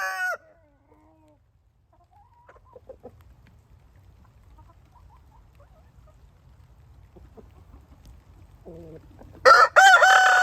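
Rooster crowing: one long crow ends right at the start, a few faint clucks follow, and another loud, long crow begins near the end.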